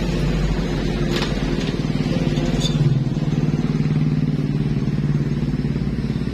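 A motorcycle engine running steadily, swelling slightly in the middle, with a few faint light clicks over it.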